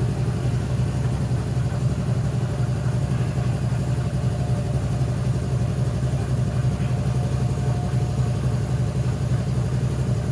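Steady running hum of an engine or motor, even and unchanging throughout.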